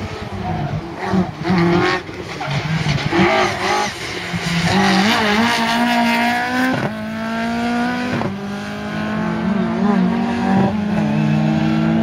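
Ford Escort rally car engine revving in short bursts, then pulling hard with its pitch climbing and dropping back at each of about three upshifts.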